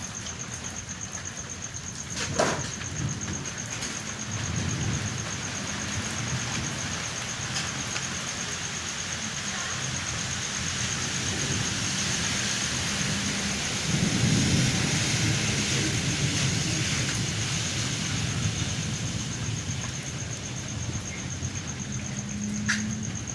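Thunderstorm: steady rain with thunder rumbling low, swelling about four seconds in and rising to its loudest about fourteen seconds in. A sharp crack comes about two seconds in.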